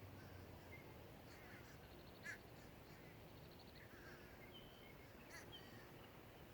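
Faint, distant crows cawing, two short caws about two and five seconds in, with a few thin chirps from other birds.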